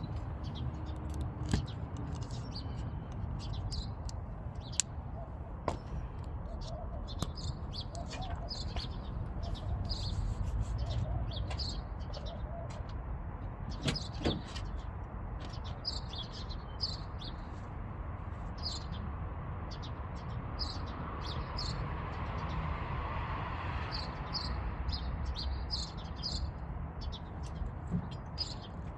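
Small birds chirping in short, repeated calls over a steady low rumble, with a few sharp clicks.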